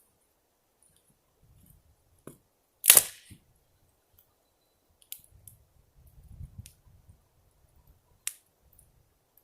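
Campfire wood popping: a few sharp snaps, the loudest and longest about three seconds in, with smaller pops later, over a faint low rumble around six seconds in.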